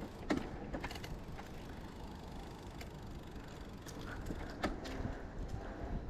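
A Riese & Muller Roadster e-bike being pedalled with its motor off: a steady low rushing noise of riding, with a few sharp clicks or knocks, the loudest a little under five seconds in.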